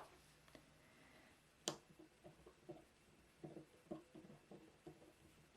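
Faint, short scratching strokes of a drawing tool working on paper, a few a second, with one sharp tick about one and a half seconds in.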